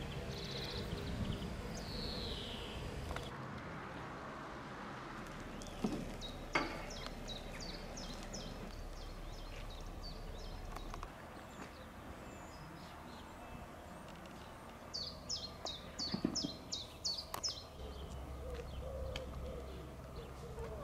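Outdoor ambience with birds chirping: two bouts of quick, repeated high notes and a single falling call near the start. Two short knocks about six seconds in.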